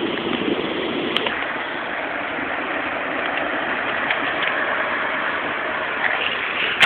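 Steady rain falling, an even hiss with a few faint ticks of drops or hailstones striking.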